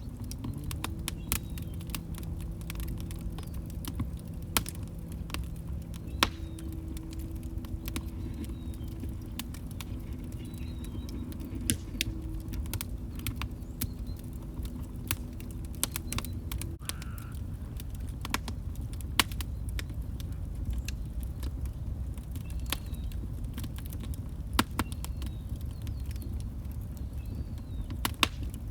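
Log fire burning: a low rumble of flames with frequent sharp crackles and pops. A faint low steady tone sounds through the first half and stops a little over halfway through.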